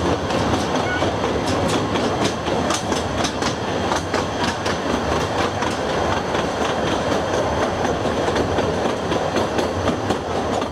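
Narrow-gauge passenger train running along the track, heard from an open carriage side: a steady rumble of wheels on rail with many sharp clicks and rattles as the wheels pass over rail joints.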